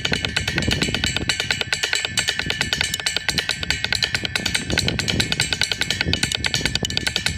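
Drum kit played fast: a dense, unbroken run of rapid drum and cymbal strokes, with cymbals ringing over it.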